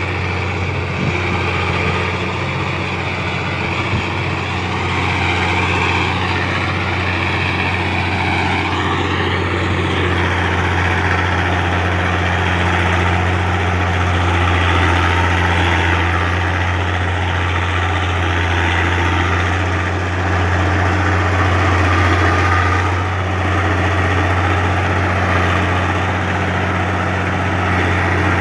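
Komatsu D60-8 bulldozer's diesel engine running steadily, a constant low hum with mechanical clatter above it.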